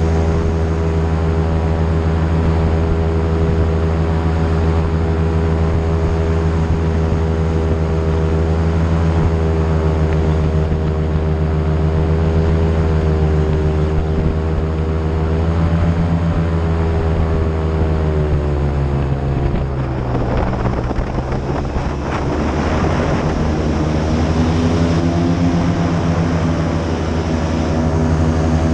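Airboat engine and propeller running loud and steady at speed. Toward the end the revs drop and the pitch sinks, with a rush of noise, then the engine picks back up.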